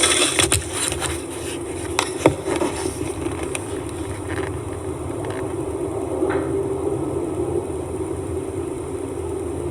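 Steady low droning hum, the so-called strange trumpet sound in the sky, with several sharp knocks from construction work over it in the first couple of seconds.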